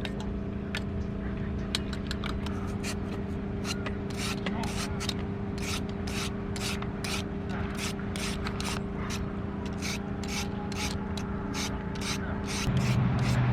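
Rhythmic scraping or rubbing strokes, about three a second, over a steady low hum.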